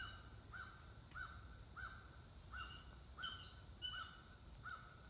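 Faint bird call repeated at a steady pace, about one short note every two-thirds of a second, with a few higher chirps mixed in around the middle.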